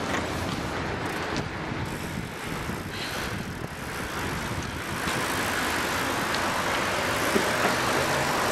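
Steady rushing road noise of a group riding bicycles along a city street, mixed with passing car traffic and a few faint clicks.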